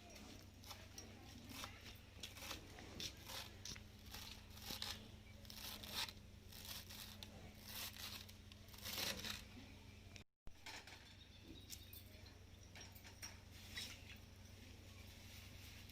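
Kitchen handling sounds: irregular scrapes, snips and crunches, with a steady low hum underneath and a brief dropout about ten seconds in.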